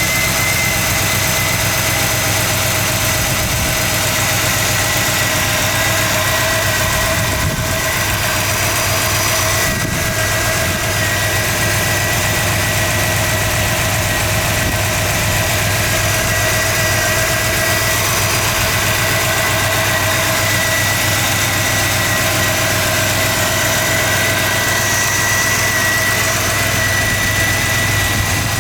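1966 Oldsmobile 98's V8 engine idling steadily, with a thin steady whine over the engine note.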